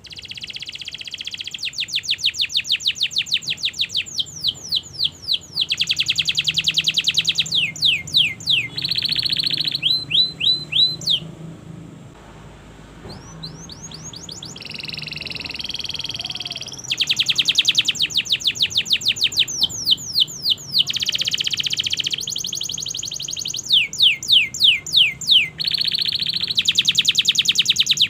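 Domestic canary singing a long, continuous song of rapid trills: runs of quick downward-sweeping notes alternating with buzzing rolls, the pattern changing every second or two, with a short lull near the middle.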